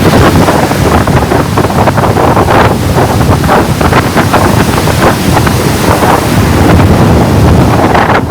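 Ocean waves washing onto a beach, a loud continuous roar of surf with wind buffeting the microphone.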